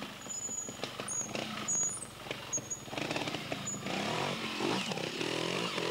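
Fantic two-stroke trials motorcycle engine blipped and revved as the bike picks its way through a section, the revs rising and falling and louder from about three seconds in. A few high chirps in the first two seconds.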